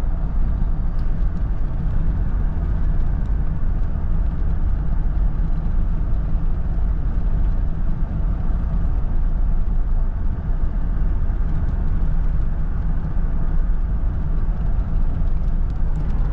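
Steady road and engine noise of a car driving, heard from inside the cabin as a constant low rumble.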